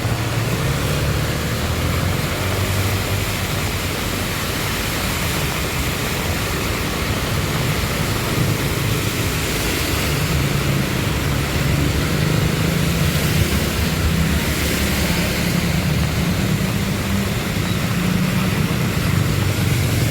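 Motorcycles riding through deep flood water in heavy rain: a low, uneven engine drone under a steady hiss of rain and splashing water.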